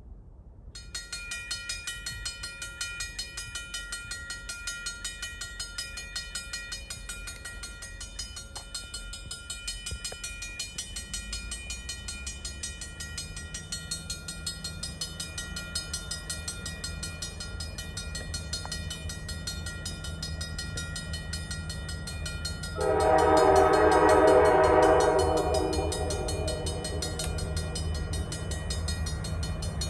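A railroad crossing bell rings in rapid, even strokes. From about a third of the way in, the low rumble of approaching diesel locomotives (an EMD SD40-2 and GP38-2) builds. Near the end the lead locomotive's air horn sounds one loud blast of about three seconds, the loudest sound here.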